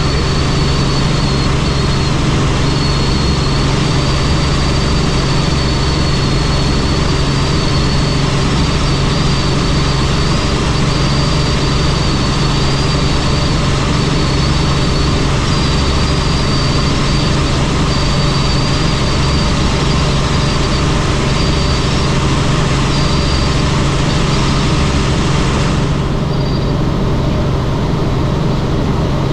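Helicopter in flight: steady engine and rotor noise with a low hum and a high, wavering whine. The whine drops out near the end.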